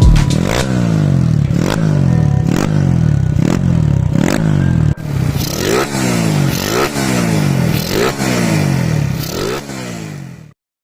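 Suzuki Raider J / Smash single-cylinder engine, bored out to 125cc, being revved up and down over and over, its pitch climbing and dropping about once a second. It fades out and cuts off near the end.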